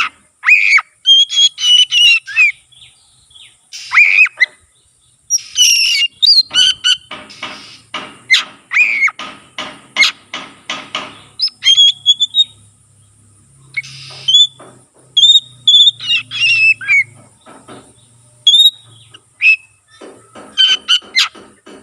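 Oriental magpie-robin (kacer) singing loudly in varied phrases: clear whistled notes that slide in pitch, mixed with fast, scratchy chattering trills, coming in bursts with short gaps between them.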